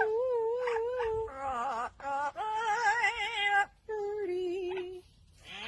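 A high voice singing held, wavering notes in four short phrases, with a brief pause near the end.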